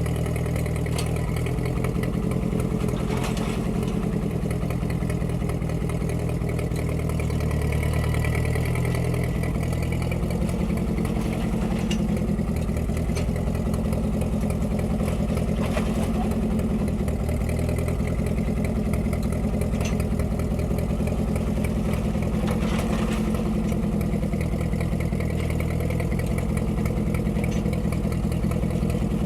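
1946 Ford 2N tractor's four-cylinder flathead engine running steadily while driving a PTO post hole digger auger into the ground, its pitch shifting slightly now and then as the load changes, with light mechanical clatter. The engine has enough power to turn the auger in this soil.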